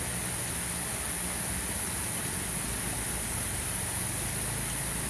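Steady rain hiss with a low engine hum underneath and a constant high-pitched whine over it.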